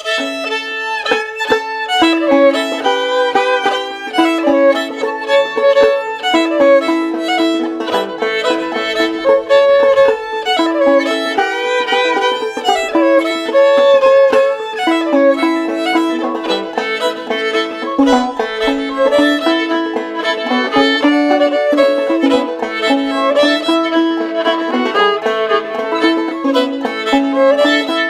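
Fiddle playing a tune, starting suddenly, with held lower drone notes sounding under the moving melody.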